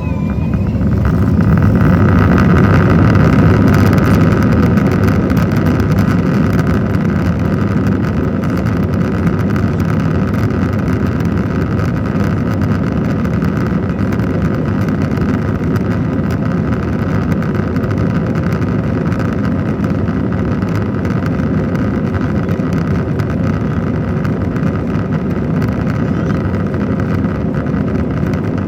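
Airbus A321 cabin noise: the jet engines and rushing air running loud and steady, swelling over the first few seconds and then holding, with a deep rumble and a hum-like band through it.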